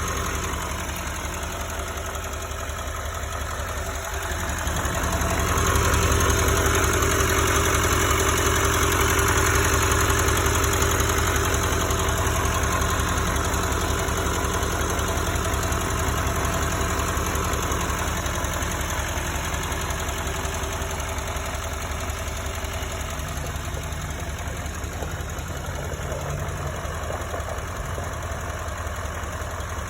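A 2019 Chevrolet Silverado 3500 HD's 6.6-litre Duramax V8 turbo diesel idling steadily under the open hood. It grows louder about five seconds in and eases back down later on.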